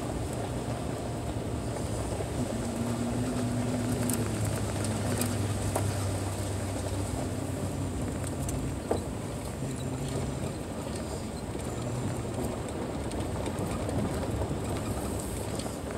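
Car engine running in first gear down a steep grade, engine braking to hold the vehicle back with little use of the brakes, with a low, steady engine note under tyre noise on a dirt road.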